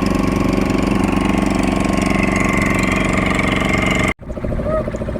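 Boat motor running steadily at low speed, which stops abruptly about four seconds in.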